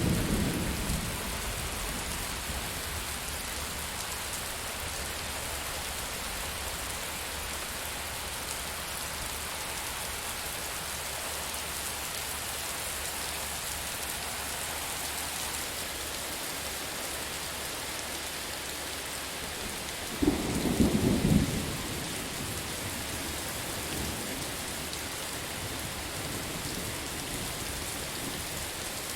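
Steady rain falling, with the last of a thunder rumble dying away at the start and a short, sudden clap of thunder about twenty seconds in.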